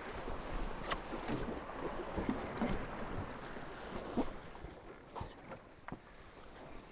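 Water rushing along the hulls of a Tornado racing catamaran, with wind on the microphone and a handful of sharp knocks and clicks from the rig and gear as the boat jibes.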